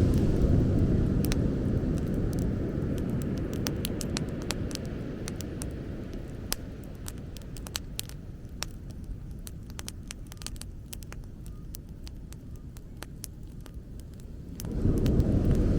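Beach bonfire crackling, with frequent sharp pops and snaps from the burning wood. Under it a low rumble fades away over most of the stretch and comes back abruptly near the end.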